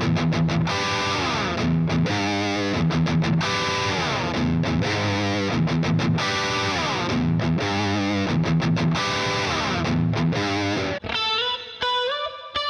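Epiphone Widow Les Paul Custom electric guitar played through heavy distortion: a fast riff with sliding notes and short stops. About eleven seconds in it changes to a thinner melody of single notes.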